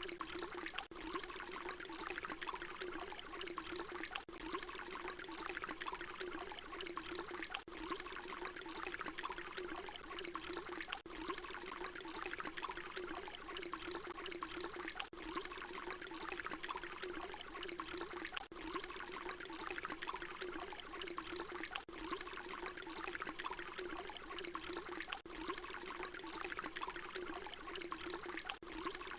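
Water pouring in a steady, continuous stream, with a strong low-middle gurgle. It is broken by brief dips about every three and a half seconds, where the short recording loops.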